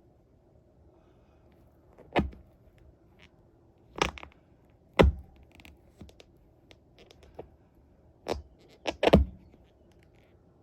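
Handling sounds: about six separate knocks and thumps, with light clicks between them and two close together near the end.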